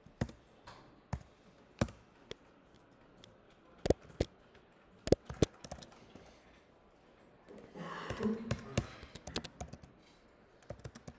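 Typing on a computer keyboard: scattered single keystrokes, with a faster run of keys about eight seconds in.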